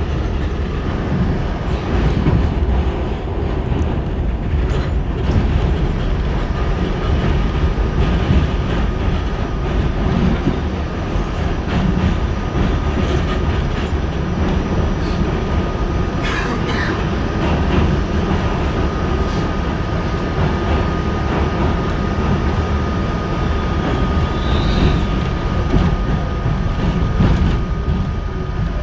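A 1987 Westinghouse R68 subway car running through the tunnel, heard from inside: a steady, loud rumble of wheels and running gear with a faint steady whine under it. There is a brief sharper screech about two thirds of the way in.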